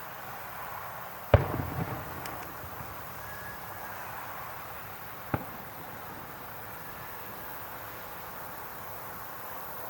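Fireworks shells bursting: one loud bang about a second in, trailed briefly by crackling, and a second, smaller bang about four seconds later.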